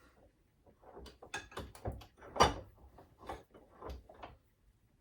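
A string of irregular knocks and clunks, like tools and metal parts being handled and set down, the loudest about two and a half seconds in.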